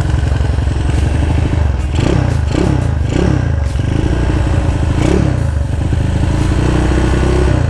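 Motorcycle engine idling while it warms up after a fresh start, with several short throttle blips about two to five seconds in.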